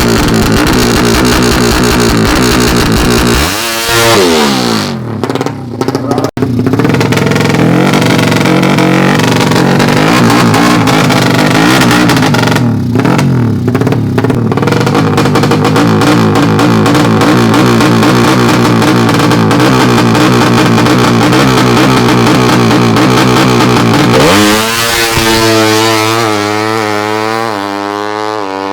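Tuned 200cc underbone (bebek) drag-racing motorcycle engine revving loud and high on an open exhaust. Its pitch dips and climbs again about four seconds in, and near the end it rises in repeated climbs, like a bike pulling up through the gears.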